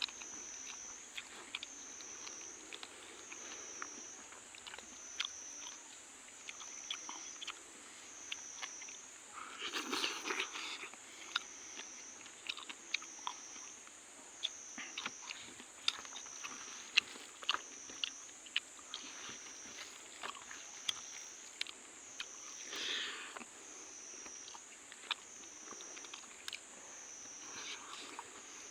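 Close-up chewing and crunching of fried magur fish and rice: many sharp wet mouth clicks and bites, with a couple of louder crunchy bursts. Behind it runs a steady high-pitched insect drone that swells and fades about once a second.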